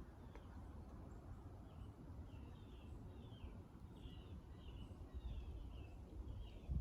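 A bird singing a quick run of short chirping notes, starting about two seconds in, over a faint steady low rumble.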